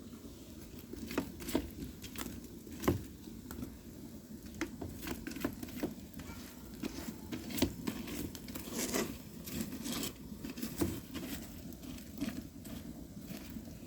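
Firewood burning, crackling and popping at irregular intervals over the low steady rush of the flames.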